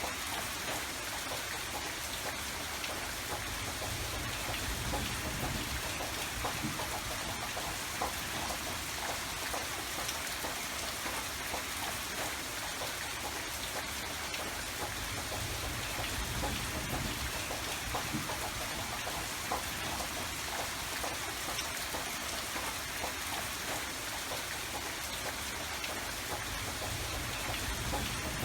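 Steady rain falling, with a dense patter of individual drops over a soft low rumble.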